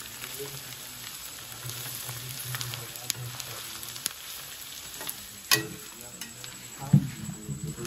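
Onion with garlic, ginger and green chilli frying in hot oil in a pan, a steady sizzle, stirred with a spoon that clicks against the pan a few times, most sharply about five and a half seconds in.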